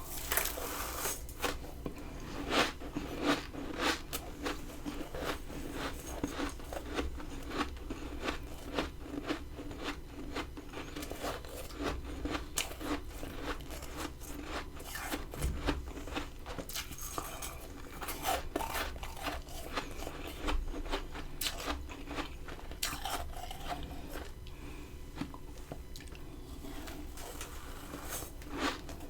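Close-miked biting and chewing of freezer frost: dense, irregular crunching, bite after bite.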